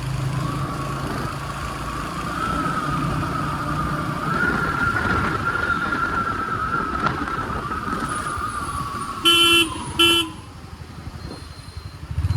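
Motorcycle riding in traffic, engine and road noise with a steady whine. A vehicle horn gives two short toots about nine and ten seconds in, and the engine noise drops away after them.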